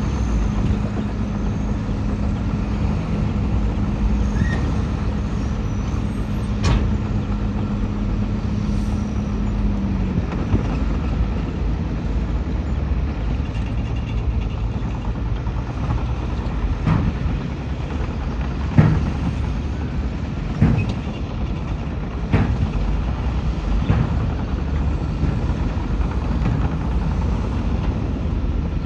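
Heavy diesel earthmoving machinery running, a bulldozer and dump trucks working soil, a steady low rumble with an engine note that drops away about a third of the way through. Sharp metallic clanks break in now and then, the loudest a little past halfway.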